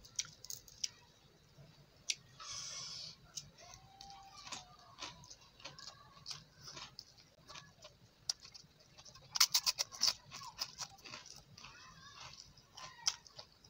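Close-up mouth sounds of someone eating by hand: chewing and wet lip-smacking clicks at an irregular pace, with a quick run of clicks about two-thirds of the way through.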